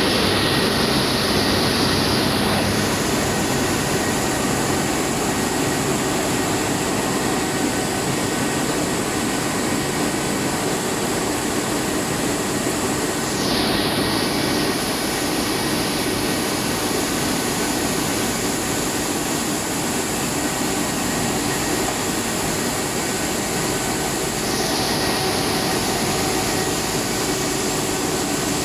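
Rice milling plant machinery running: a loud, steady mechanical whir with faint steady tones in it. The high part of the noise changes a few times, about 3, 14 and 25 seconds in.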